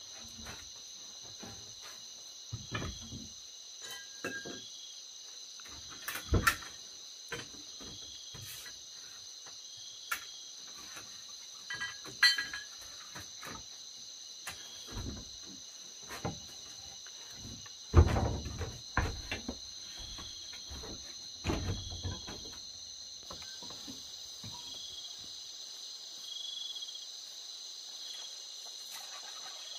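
Steady chorus of crickets with a soft chirp repeating about once a second, under scattered knocks and clatter of handling things, the loudest a thump followed by rustling about eighteen seconds in.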